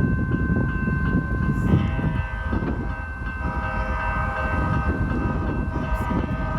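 Houston METRORail light-rail train coming through over a low, steady rumble, with a horn held from about three seconds in.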